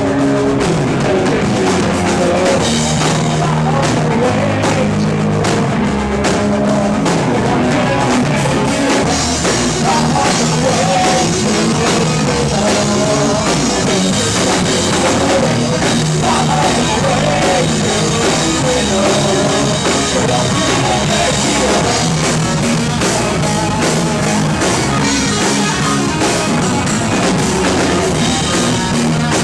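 Rock band playing live at full volume, a drum kit driving the beat under electric guitars, dense and steady.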